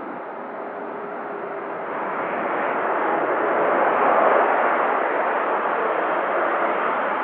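Boeing 787-9 Dreamliner jet engines: a rushing roar that swells to a peak about four seconds in, then holds steady.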